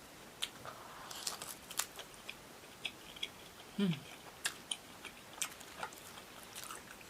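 Close-up eating sounds of a person chewing a mouthful of starch-coated fried eggplant with minced beef sauce: scattered soft wet clicks and small crackles from the mouth. There is a short hum about four seconds in.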